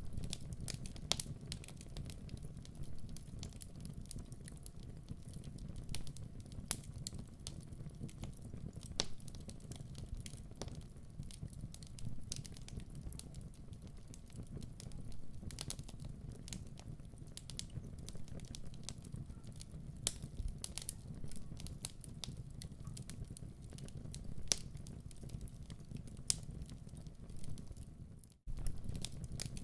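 Wood fire crackling in a fireplace: frequent sharp pops and snaps over a low steady rumble of the flames. The sound cuts out for an instant near the end.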